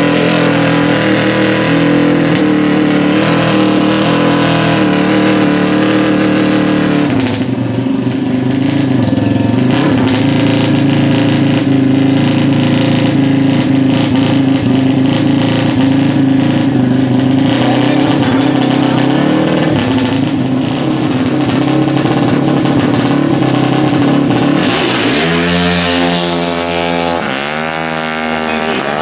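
Super Open drag bike built from a Kawasaki KR and a Honda CBR, its engine held at high revs at the start line with the pitch stepping up and down. About 25 seconds in it launches: the pitch rises, drops back at each upshift and rises again as it pulls away.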